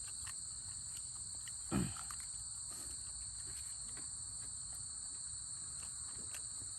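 Steady high-pitched chorus of insects, an unbroken shrill drone. A short vocal sound from a person cuts in once, about two seconds in.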